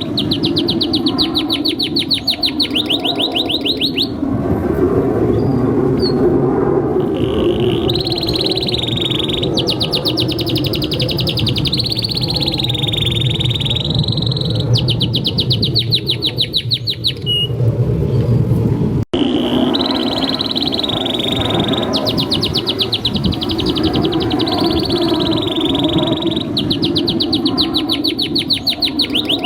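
Domestic canary singing a long, continuous song of fast rolling trills alternating with held high notes, over a steady low background noise. The song breaks off in a brief dropout about two-thirds of the way in and goes on again at once.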